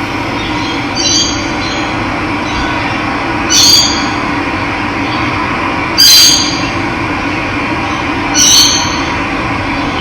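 Steady rush of running water, with a bird giving a short, loud call four times, about every two and a half seconds.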